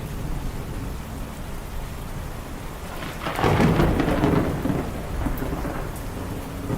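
Steady rain with a low rumble of thunder underneath. About three seconds in, a louder roll of thunder swells up and dies away over the next two seconds.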